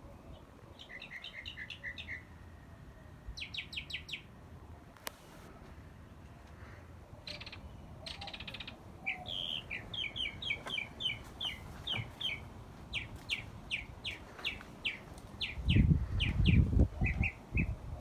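Birds chirping: short bursts of quick high chirps, then a long run of sharp repeated chirp notes, about three a second. A loud low rumble near the end.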